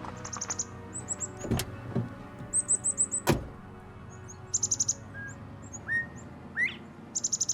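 Songbirds chirping: quick runs of five or six high chirps and short upward-sliding calls, over soft music with a steady low tone. Two sharp knocks come about a second and a half and three seconds in.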